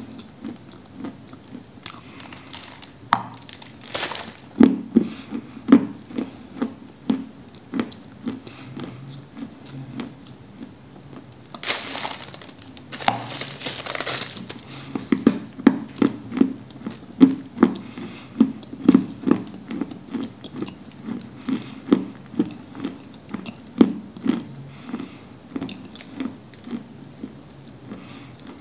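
Close-up chewing of a dry, dusty lump of Orsk cream, an edible clay. Sharp crunchy bites come about 2 and 4 seconds in, a longer crumbling crunch comes about halfway through, and steady rhythmic chewing runs between them, about two chews a second.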